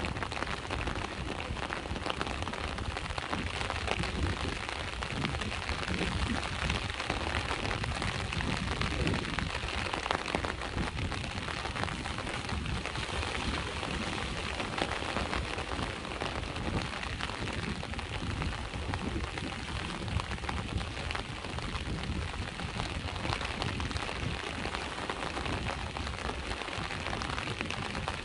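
Steady rain falling, with a low rumble of sea surf underneath.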